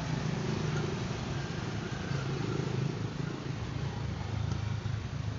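Motor vehicle running steadily, a low even rumble with a noisy hiss above it.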